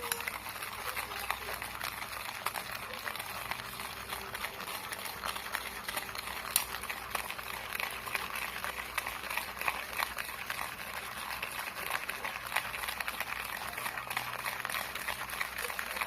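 Instant coffee, sugar and hot water being beaten by hand into dalgona foam: a steady, rapid patter of an utensil clicking and scraping through the frothing mixture against its dish, with one sharper click about six seconds in.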